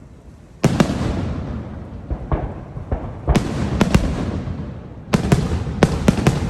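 Aerial fireworks bursting: three quick clusters of sharp bangs, each followed by a rumbling echo that dies away.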